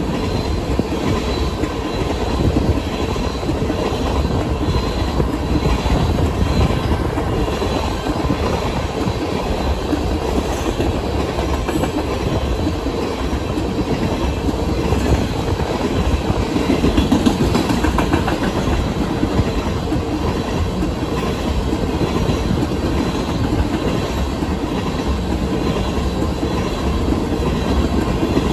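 Empty steel tank cars of a freight train rolling past at speed: a steady loud rumble with a rapid clatter of wheels on the rails, swelling slightly about two-thirds of the way through.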